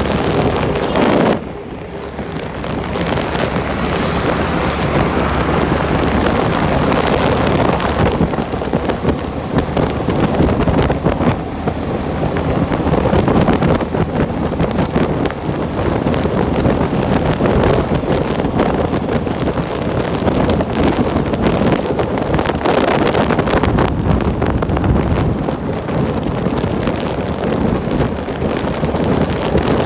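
Loud, steady wind buffeting the microphone of a camera on a moving bike, briefly easing about a second and a half in.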